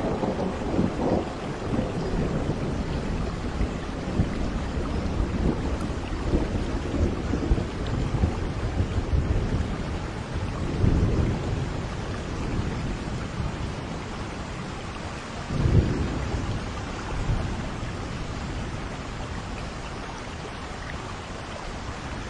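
Steady rain falling in a thunderstorm, with low rolls of thunder swelling at the start, around halfway and about two-thirds of the way through. The rain eases slightly near the end.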